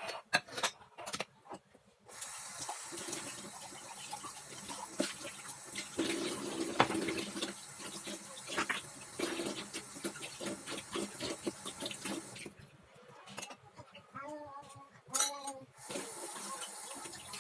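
Kitchen tap running into a sink, a steady rush of water with knocks and clinks mixed in; the water stops for a few seconds and is turned on again near the end.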